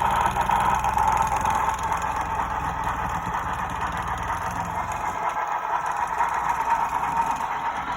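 Model train running on the layout: a steady mechanical running noise with some rattle. The low rumble under it weakens about five seconds in.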